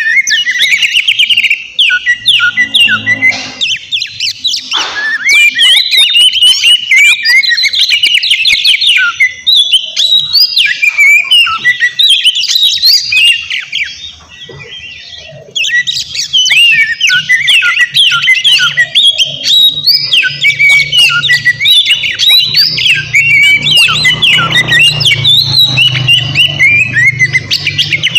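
Oriental magpie-robin (kacer) singing a loud, fast, varied song of whistled and chattering notes, with a brief pause about halfway through before the song resumes.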